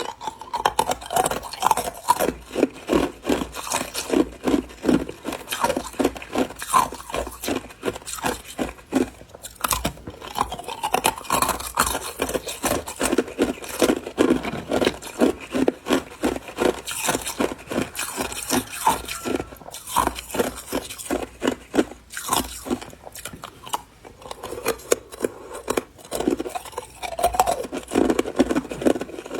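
Clear ice cubes being bitten and chewed close to the microphone: a steady run of hard, rapid crunches, several a second.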